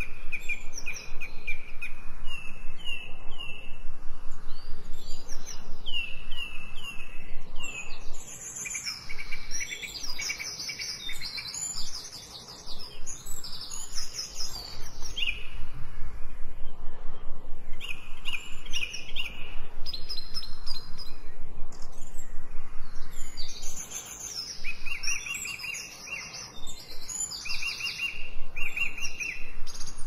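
Songbirds singing: phrases of quick, repeated chirping notes and trills from several birds overlapping, with short pauses between phrases.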